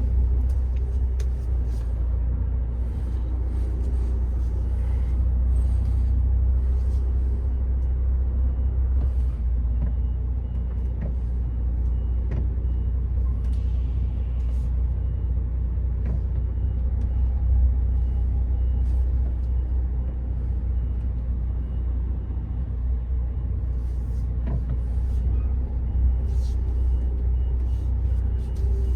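A MAN TGX 18.510 truck's diesel engine running steadily, heard from inside the cab as it moves at low speed: a constant low rumble with occasional faint clicks and rattles.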